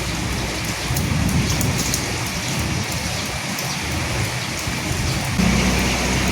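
Steady rain falling, an even hiss with separate drop hits through it. Near the end a low rumble comes in suddenly and holds.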